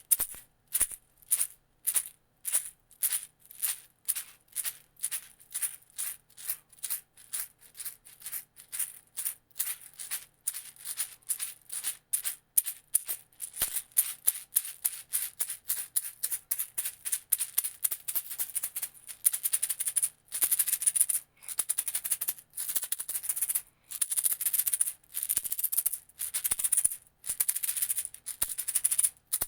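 A small hand rattle shaken in a steady rhythm, about three crisp shakes a second. About two-thirds of the way in it changes to longer runs of continuous shaking.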